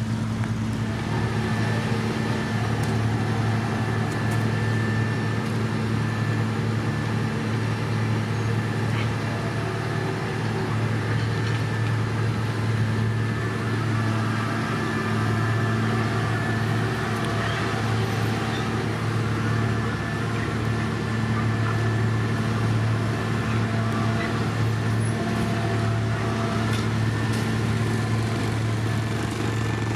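Diesel engine of heavy road-construction equipment running at a steady speed, a constant low drone with no revving.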